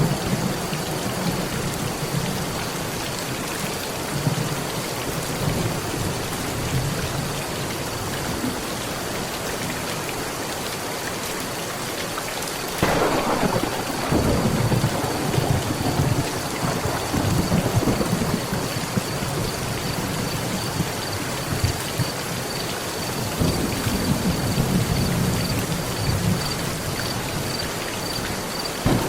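Heavy rain pattering steadily on a metal roof, with thunder: a sudden crack about halfway through that rolls on for several seconds, and another low rumble later.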